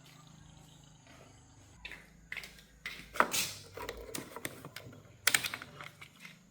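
A handful of irregular clicks and knocks, like objects being handled, loudest about three seconds in and again about five seconds in.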